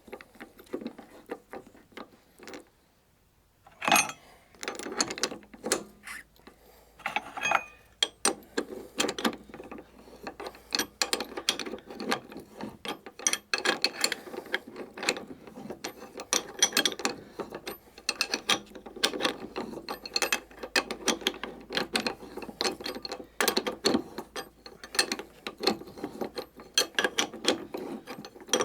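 Ratchet wrench clicking rapidly as it spins a strut top-mount nut off. After a short pause, a sharp knock about four seconds in, then steady fast clicking.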